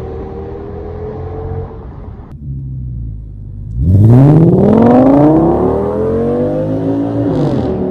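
2008 Audi S6's 5.2-litre V10 with its muffler removed, idling, then revved once near the middle: the pitch climbs sharply and sinks slowly back to idle over a few seconds.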